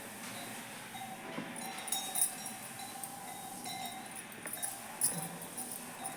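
A person eating, with scattered small clinks and rattles of jangling metal or glass.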